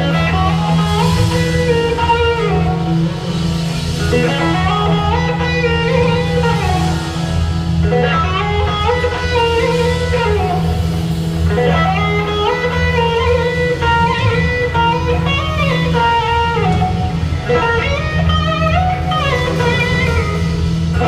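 Live blues-rock band playing: an electric guitar melody with notes that glide up and down, slide style, over a steady low bass and drums.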